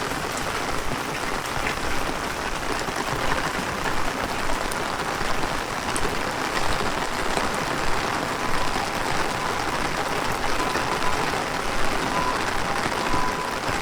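Heavy rain falling: a steady hiss with scattered drop ticks. About ten seconds in, a faint high electronic tone starts sounding on and off.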